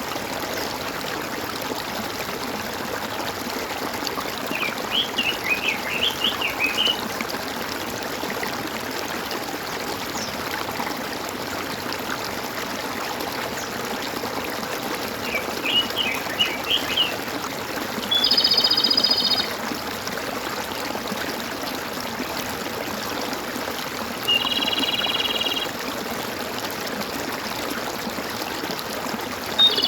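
Water gurgling and trickling steadily, with birds chirping in two short twittering bursts. Three longer, even buzzing calls of about a second and a half each come in the second half.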